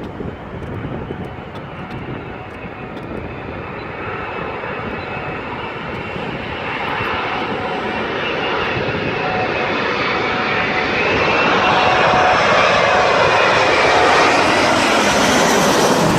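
Airbus A380's four Engine Alliance GP7200 turbofans coming in to land, a jet rumble with a whine that grows steadily louder as the aircraft approaches, peaking and holding at its loudest over the last few seconds.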